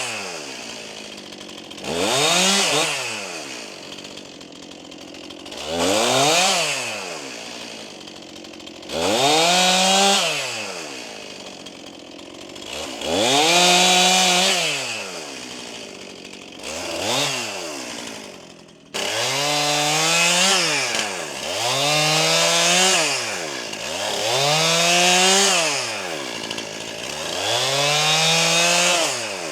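Brand-new Stihl MS261 C-M two-stroke chainsaw, on its first run and being broken in, revving from idle up to full throttle and back again and again as it makes short cuts. The revs rise and fall about every three to four seconds, then about every two seconds after a sudden change about two-thirds of the way in.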